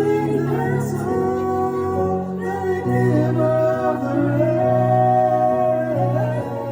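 Song performance: singing held in long notes over an instrumental accompaniment.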